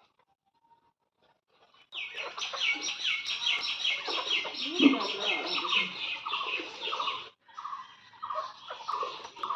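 Birds calling, starting suddenly about two seconds in with a fast run of shrill, rapidly repeated calls. After a short break, a lower call repeats about twice a second.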